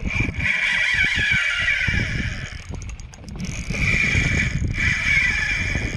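Fishing reel's drag buzzing as a hooked bull redfish pulls line off, in two runs of about two seconds each, over a low rumble.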